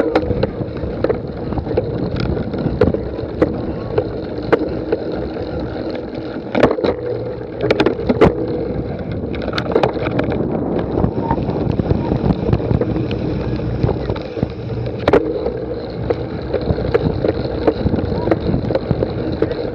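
Wind rushing over the microphone with steady rumble, and frequent sharp knocks and rattles, as from a camera riding on a bicycle over rough cyclocross ground.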